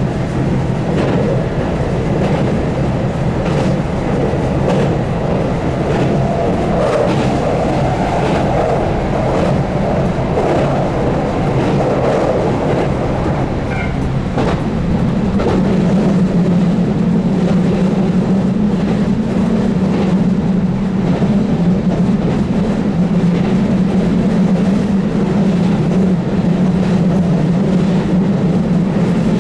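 Keihan 8000-series electric train running at speed, heard from inside the car: steady running noise with regular clicks of the wheels over rail joints. A low hum, the DC traction motors under field-added excitation control, grows stronger about halfway through.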